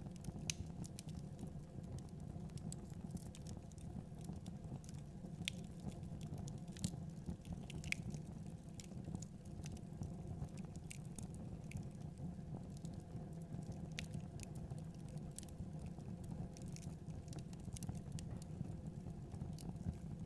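Fire burning in a fireplace: a steady low rumble under frequent irregular crackles and pops.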